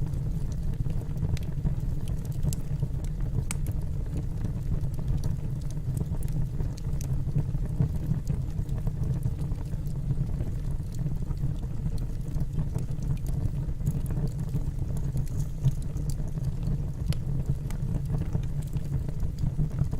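Firewood burning in a fireplace: a steady low rumble of the flames with scattered sharp crackles and pops from the logs.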